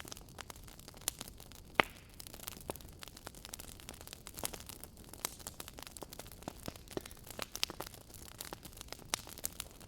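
Wood fire in a fireplace crackling: irregular sharp pops and snaps over a soft steady hiss, with the loudest pop a little under two seconds in.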